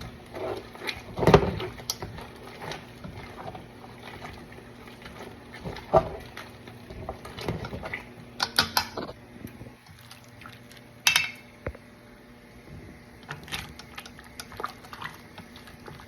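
Kitchen sounds of cooking in a pot: scattered clinks and knocks of a pot and utensils, with brief liquid noises, over a faint steady hum.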